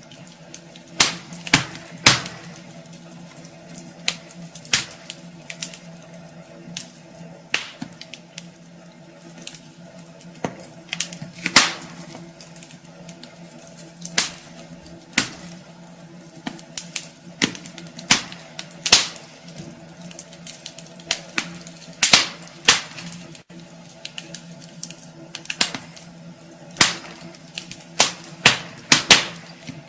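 Wood fire in a fireplace crackling: irregular sharp pops and snaps, some loud, come every second or so over a steady low hum and a soft hiss.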